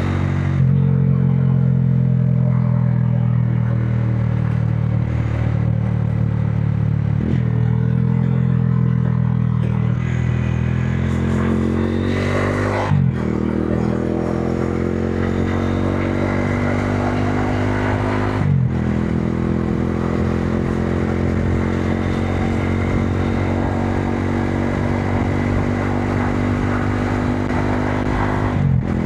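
Modenas Dominar 400's single-cylinder engine running under load as the motorcycle rides in traffic. Its note climbs gradually, then drops sharply and briefly several times at the gear changes.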